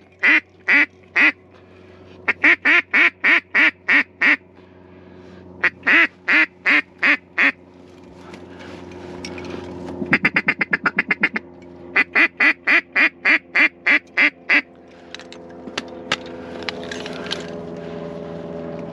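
Mallard duck call blown in several runs of loud, evenly spaced quacks, with a faster, quicker-paced run about ten seconds in. A steady engine hum grows louder in the second half.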